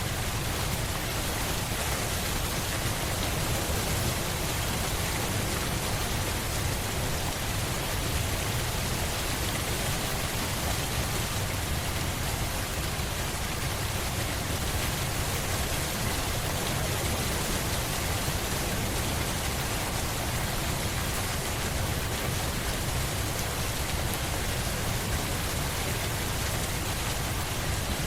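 Steady, unbroken rain falling, an even hiss with a low rumble beneath it and no single drops or thunder standing out.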